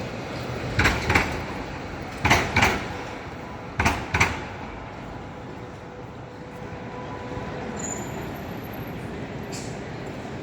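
Melbourne tram rolling past, its wheels clacking over a rail joint in three pairs of sharp knocks about a second and a half apart, over steady street noise.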